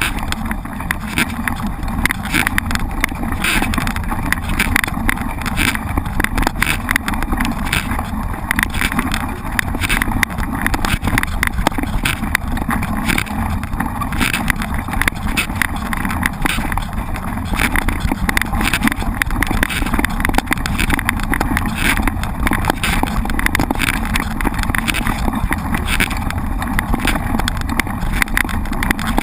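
Mountain bike being ridden over rough ground: continuous rattling and jolting with a steady low rumble and wind on the microphone.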